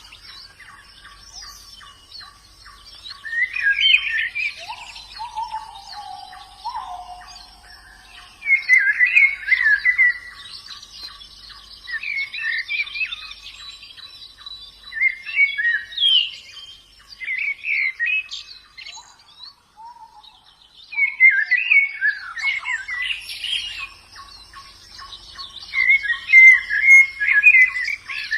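White-eyes (pleci) singing: short bursts of quick, high twittering song repeated every few seconds, with a few lower sliding whistled notes early on. A fast, even ticking runs underneath most of the time.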